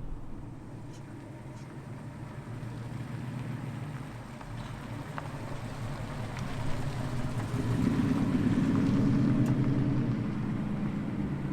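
A muscle car's engine and exhaust rumbling at low speed as it rolls past, getting louder about seven seconds in, loudest for a couple of seconds, then easing off.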